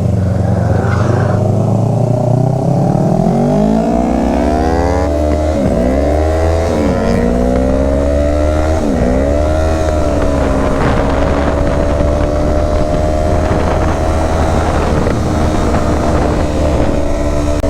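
Motorcycle engine accelerating through the gears: its pitch climbs, drops sharply at shifts about five, seven and nine seconds in, then holds steady at cruising speed, over a constant low rush of wind and road noise.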